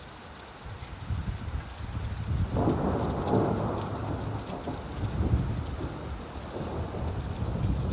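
Steady rainfall with a low rumble underneath. The rumble swells about two and a half seconds in, then settles back.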